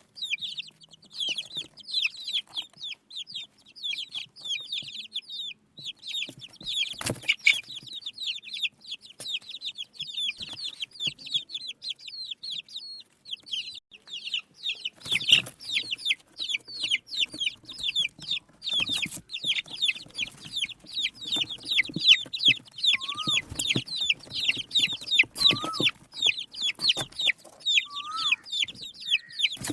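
A group of desi baby chicks peeping nonstop, many short high downward-sliding cheeps overlapping. Now and then a sharp knock, and a few lower rising calls near the end.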